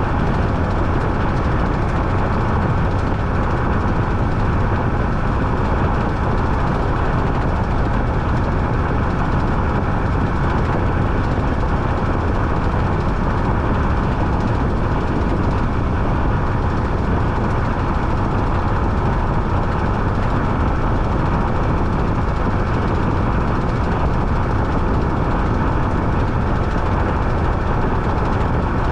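Washing machine running mid-cycle: a loud, steady churning noise with no breaks or changes.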